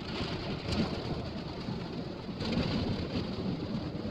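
Steady road and engine noise inside a moving car: a low rumble with a hiss over it.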